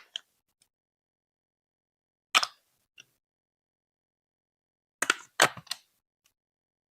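Hard plastic Lego Duplo blocks clacking. There is a double clack about two and a half seconds in and a faint tick just after, then a quick run of four or five clacks about five seconds in, with dead silence between.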